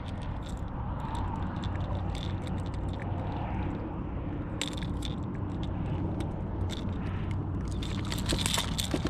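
Scattered clicks and metallic rattles of a topwater plug and its treble hooks being handled and worked free of a redfish's mouth, over a steady low rumble.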